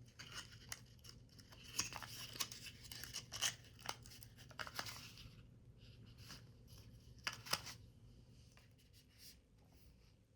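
Paper or thin card being handled and cut: crisp rustling and snipping with many small clicks for about five seconds, then a few scattered clicks, two of them sharp, a little after seven seconds.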